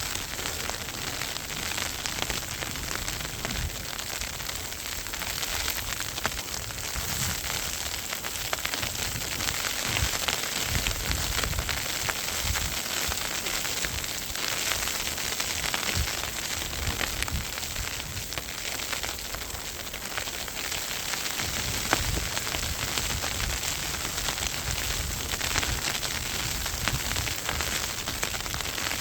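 Snowstorm noise on the microphone: a steady hiss of heavy falling snow full of fine ticks, with low wind rumbles coming and going.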